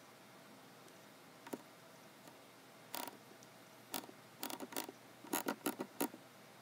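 Scattered clicks from a computer keyboard and mouse in use: a lone click about a second and a half in, a few more in the middle, and a quicker run of clicks near the end.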